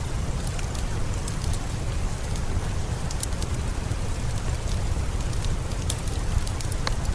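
Steady rain with a heavy low rumble, mixed with a wood fire crackling in many scattered sharp pops.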